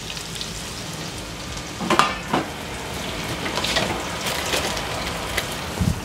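Freshly added sliced shallots sizzling in melted butter and oil in a saucepan: a steady frying hiss, with a few brief knocks about two seconds in and again near the end.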